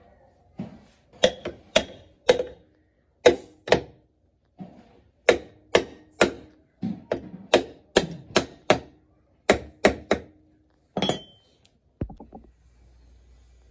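Tool knocking on engine parts during hand repair work: about twenty sharp, irregularly spaced strikes with a short ring, stopping about eleven seconds in.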